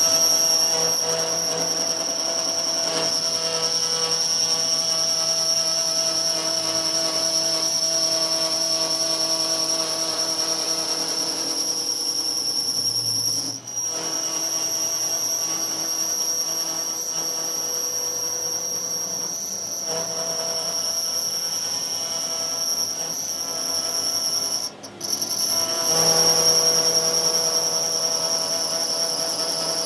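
Workshop power machinery running steadily with a high, constant whine, as metal is worked on the broken gear shaft; the sound drops out briefly twice.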